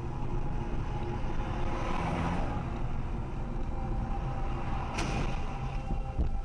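Steady engine and road noise of a moving car heard from inside the cabin, with a short sharp click about five seconds in.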